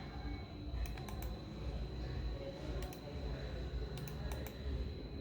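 Computer keyboard keystrokes clicking in short groups of two or three, about a second in, near the middle and again near the end, over a steady faint high-pitched whine.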